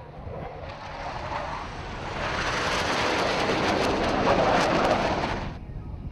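Jet aircraft flying past: a rushing noise that builds to loud and cuts off abruptly near the end.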